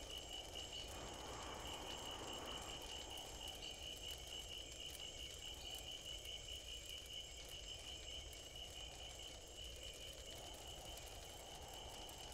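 Faint crickets chirping steadily, a continuous high trill over a soft background hiss: a night ambience.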